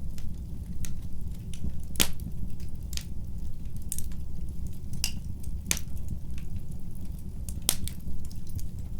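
Fire in a fireplace crackling: irregular sharp pops and snaps over a steady low rumble of the flames, with louder pops about two seconds in, a little past halfway and near the end.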